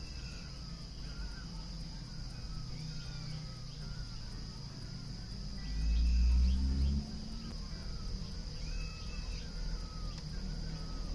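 Birds calling in short, repeated chirps over a steady high-pitched insect drone. A loud low rumble swells for about a second around six seconds in.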